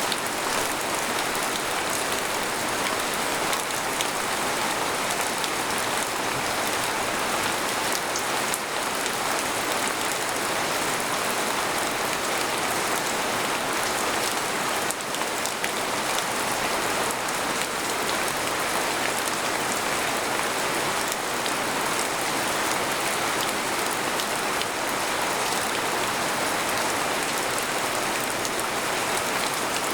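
Steady rain falling on a tent, a dense even patter with scattered individual drops ticking through it.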